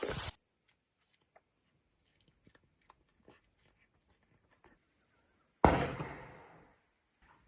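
Faint scattered ticks and knocks, then one sudden loud bang about five and a half seconds in that dies away over about a second.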